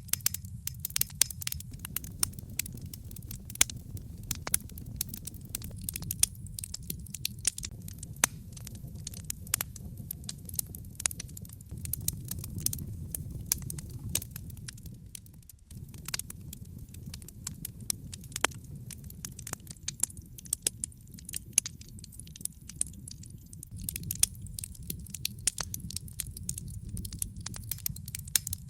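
Wood fire burning in a fireplace: frequent, irregular sharp crackles and pops of burning logs over a low, steady rumble of the flames. The rumble drops out for an instant just past halfway.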